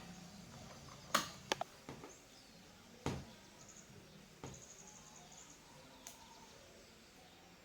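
A handful of short, sharp clicks and taps, the loudest about a second in, over a quiet background with faint high bird chirps.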